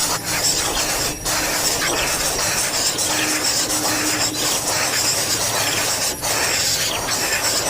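Steady hissing noise with a couple of brief dips in level.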